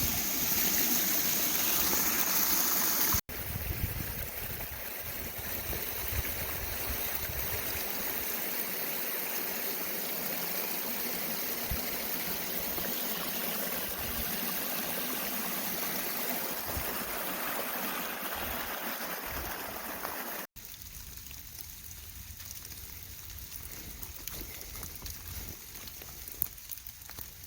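Steady rush of a flowing forest stream, broken by two abrupt cuts. After the second cut, about two-thirds of the way through, the water is quieter and a few faint clicks come through.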